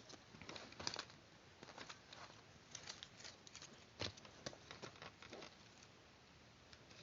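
Paper being cut and handled for a paper-craft model: quiet, irregular snips, clicks and brief rustles of paper.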